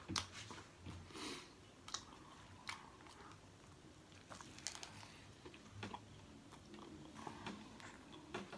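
Close-up eating sounds: a person biting and chewing pizza with crisp fresh lettuce, giving irregular wet crunches and mouth clicks.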